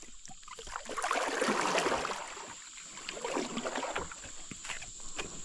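Water splashing and sloshing against a kayak, with small knocks, loudest about a second or two in.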